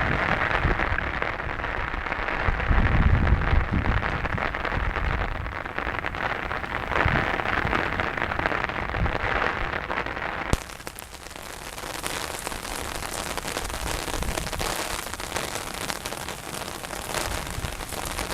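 Heavy rain falling in a steady hiss, with low rumbling gusts in the first half. About halfway through the sound changes abruptly to a brighter, thinner hiss of rain.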